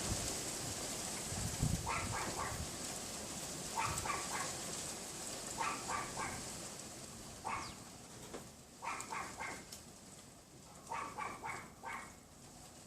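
Pomeranian yapping in quick bursts of three or four high yaps, a burst about every two seconds. Steady wind rushes underneath, gusting on the microphone in the first two seconds.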